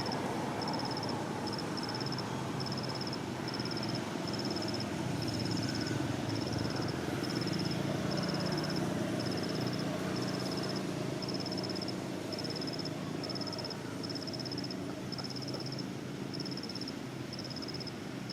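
Even, high-pitched chirps from a small calling animal, about two a second, over steady low background noise.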